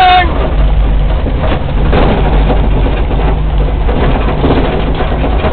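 Volkswagen Thing's air-cooled flat-four engine running steadily under way, heard from inside the cabin as a loud, even low rumble with road noise.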